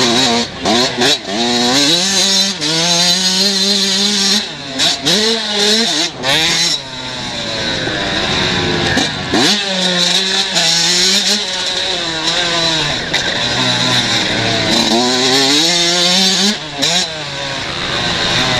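125 cc motocross bikes racing, engines revving up and dropping back again and again as they shift and close the throttle, with pitch sweeps as bikes pass.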